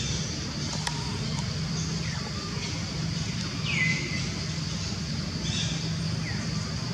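Outdoor forest ambience: a few short, falling bird chirps, the clearest about four seconds in, over a steady high hiss and a low steady hum.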